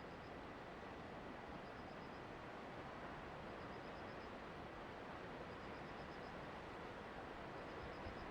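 Steady rushing noise of wind and rain during an approaching typhoon, with a faint high trill of quick ticks repeating about every two seconds.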